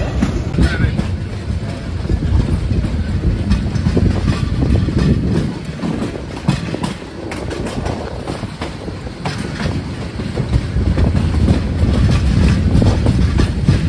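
Turna Express passenger coach rolling out of the station, heard at its open door: a steady rumble of wheels on rail with irregular clacks and knocks over joints and points. It is quieter for a couple of seconds midway.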